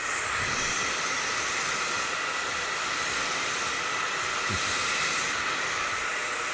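MQ Pro Digital 2400 W hair dryer running on a stronger fan setting: a steady rush of blown air with a faint motor whine. It steps up in loudness right at the start as the setting is switched up.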